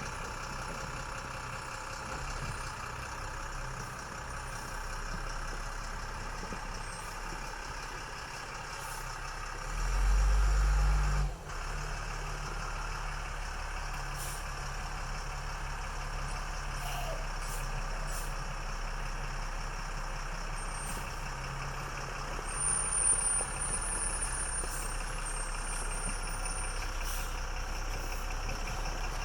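Converted LMTV military truck's diesel engine running steadily, with a much louder low rumble for about a second and a half around ten seconds in. A thin high whine comes in near the end.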